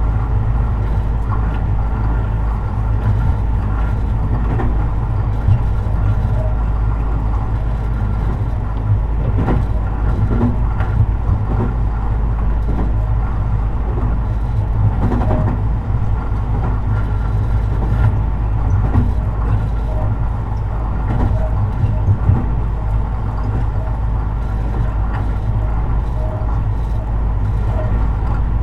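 Tobu 50090 series electric train running steadily, heard from near the underfloor of a car, with a heavy rumble and a steady whine. Occasional sharp clicks and knocks sound through it.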